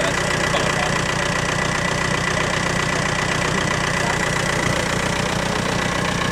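Off-road competition vehicle's engine idling steadily, with a thin, steady high whine over the low engine rumble.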